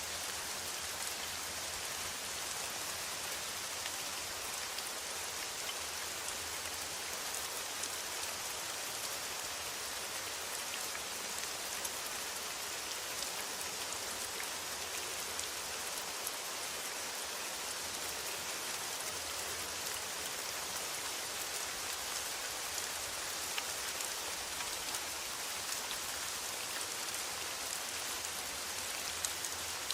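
Steady rain on a metal roof: a dense, even hiss of rainfall with scattered sharper drop ticks.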